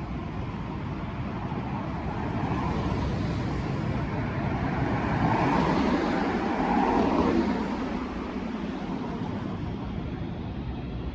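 A road vehicle passing by over steady street traffic noise, growing louder to a peak about six to seven seconds in, then fading.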